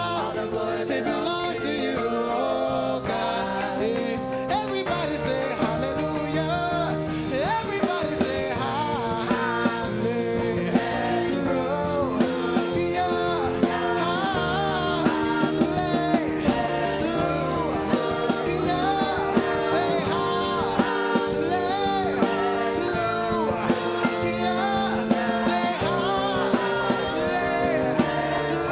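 Live gospel praise song: a singer's voice over a full band with guitar, played loud and continuous.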